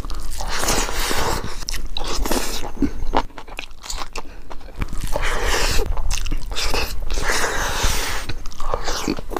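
A person chewing mouthfuls of rice with chicken gizzard curry, eaten by hand, in repeated bursts of mouth noise.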